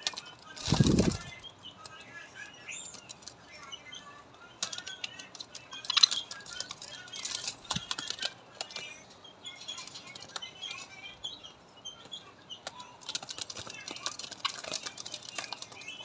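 Small flock of budgerigars and lovebirds chirping and chattering in short high calls, with a loud flurry of wing flapping about a second in and a sharp click near the middle.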